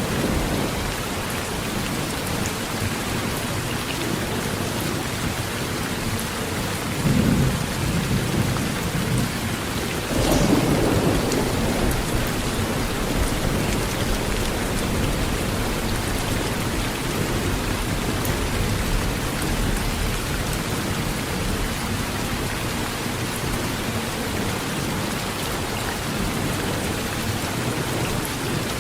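Steady rain drumming on a metal tin roof, with two rolls of thunder rumbling about seven and ten seconds in.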